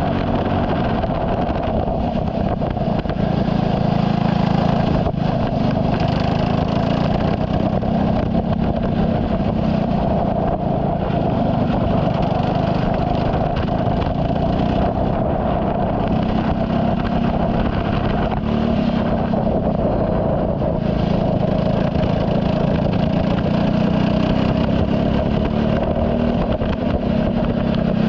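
Engine of a turbocharged Saab 9-3 race car running steadily at speed on track, its pitch rising and falling only gently, with constant road noise.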